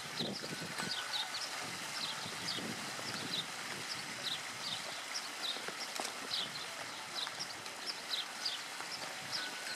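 Bird chirping over and over: short high chirps falling in pitch, often in pairs, several a second, over a low hum of outdoor background noise.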